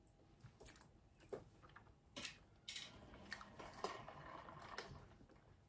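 Faint close-up chewing of fried yam, with scattered small clicks and wet mouth sounds.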